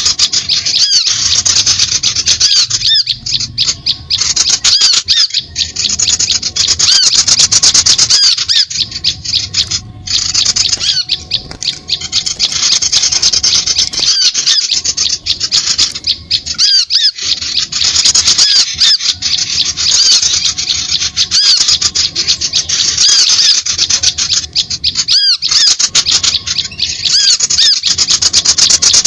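Bird-lure recording: a dense, continuous chorus of small birds chattering and chirping rapidly, with many quick calls overlapping and only brief pauses.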